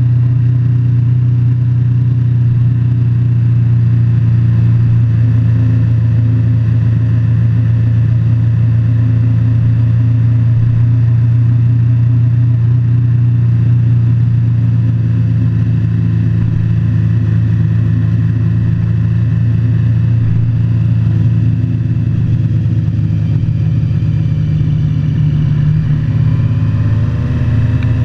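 Motorcycle engine running at a steady speed while under way, with a brief dip in level near the end before it settles again.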